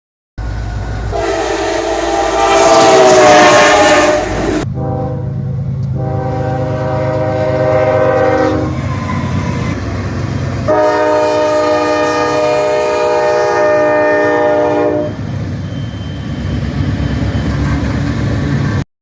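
Freight train's diesel locomotive horn sounding three long chord blasts over the steady low rumble of the locomotives and train.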